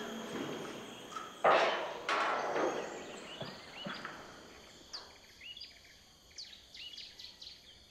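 Two brief loud rushing noises about one and a half and two seconds in, then small birds chirping in short rising calls that come more often in the second half.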